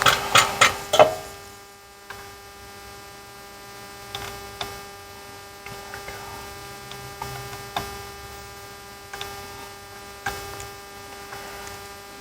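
Steady electrical mains hum with scattered light clicks, opening with a quick run of loud knocks in the first second.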